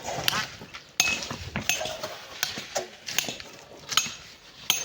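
Metal digging tools striking rock and packed sand in irregular, sharp blows, several of them leaving a brief metallic ring.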